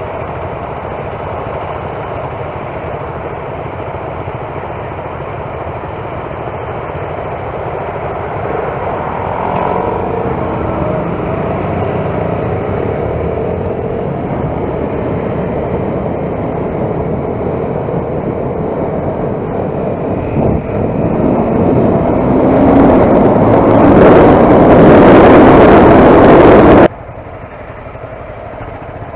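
Motorcycle engine running under way with heavy wind noise, growing louder toward the end, then cutting sharply to a quieter, steady engine sound.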